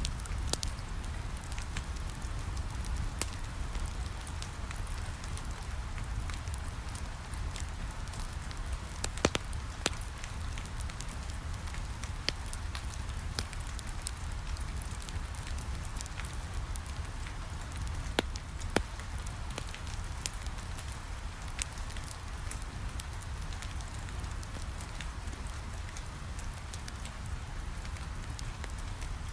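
Steady rain pattering on a window, mixed with a wood fire crackling in a fireplace. Fine crackles run throughout over a low rumble, with a few sharper pops, two of them around ten seconds in and two more a little past halfway.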